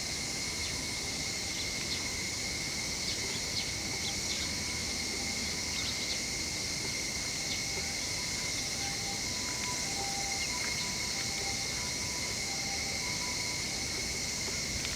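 Steady summer insect chorus: a continuous high drone with a fainter, higher hiss above it, and scattered faint chirps over the top.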